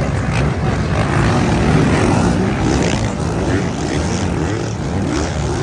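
A pack of motocross bikes accelerating hard together off the start line. Many engine notes rise and drop one after another as the riders shift up.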